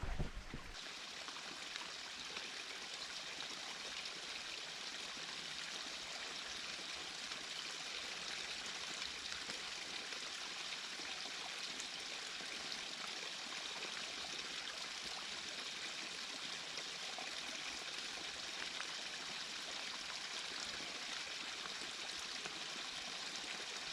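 Creek water running over rocks: a steady, even rushing that doesn't change, with a short low bump at the very start.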